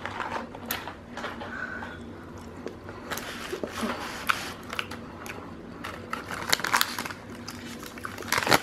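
Close-up eating sounds of McDonald's fries being chewed, with irregular small crunches and crackles.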